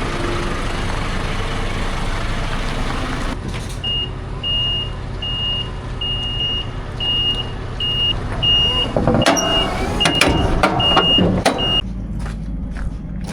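Scania R500 truck's 13-litre inline-six diesel idling, joined about four seconds in by a high electronic warning beeper sounding about one and a half times a second for roughly eight seconds. Sharp knocks and clatter come near the end.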